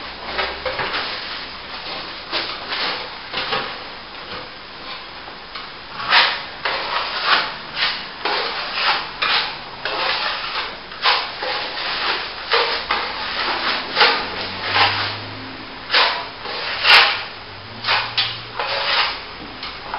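A plastering trowel being stroked over wet top-coat plaster, making repeated scraping strokes about two a second that grow stronger and more regular about six seconds in.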